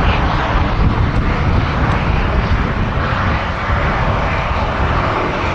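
Propeller aircraft with piston engines running steadily.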